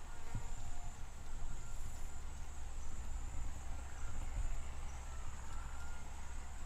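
Steady high-pitched insect drone over a low rumble, with faint thin chirps now and then and no distinct knocks or other events.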